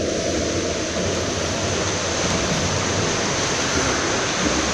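Steady rushing splash of pool water, an even noisy wash with no distinct strokes.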